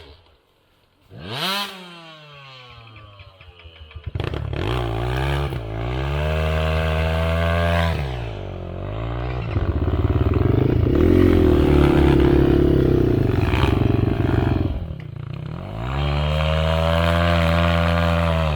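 Dirt bike engine revved hard in repeated surges, its pitch rising and falling again and again and loudest in the middle stretch. There is a short blip of revs just after the start, then a few seconds of lower running before the hard revving begins.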